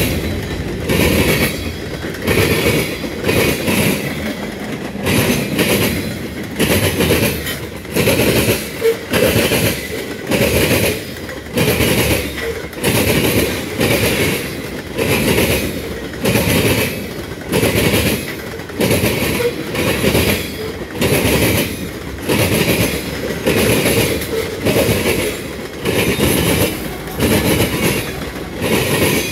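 Freight train cars rolling past close by, the wheels clacking over the track in a steady rhythm of about one beat a second.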